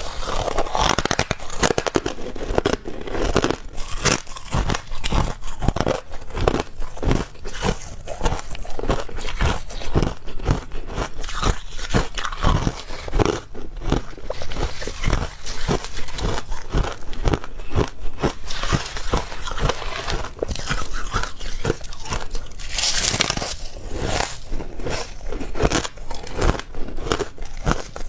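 Close-miked biting and chewing of ice: continuous crisp crunching and crackling, with one louder crunch late on.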